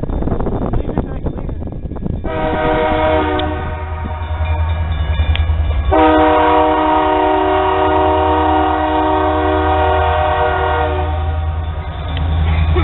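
Canadian National freight locomotive's air horn sounding for a grade crossing: a long blast that starts about two seconds in, then a second, louder long blast from about six seconds in that stops about eleven seconds in, over a steady low rumble.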